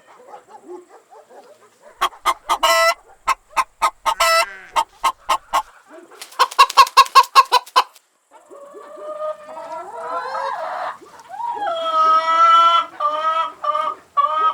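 Chickens clucking in quick runs of short calls, then giving longer drawn-out calls in the second half.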